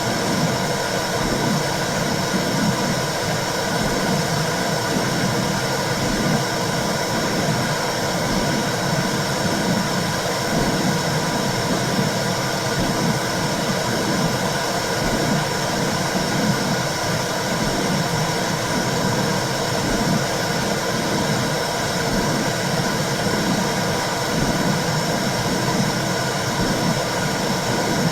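Womb sound for soothing a baby: a steady whooshing noise with a low rhythmic pulse about once a second, like a heartbeat heard from inside the uterus.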